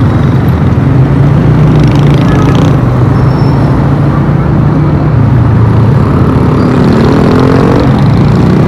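Motorcycle engine running steadily while riding through city traffic, with loud road and wind noise on the rider's microphone; a pitched tone rises briefly near the end.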